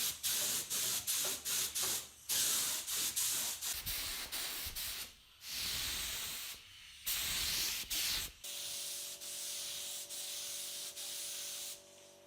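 Sanding strokes, quick and back-and-forth at about three a second. About eight seconds in they give way to a steady hiss with a faint hum, which drops away near the end.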